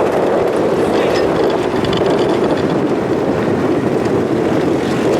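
Mud truck engine running hard, a loud steady noise with no change in pitch.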